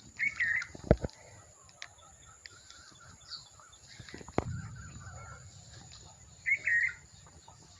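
A bird calling twice, a short warbling chirp near the start and again about six and a half seconds in, over a faint outdoor background. Two sharp knocks, about a second in and about four and a half seconds in.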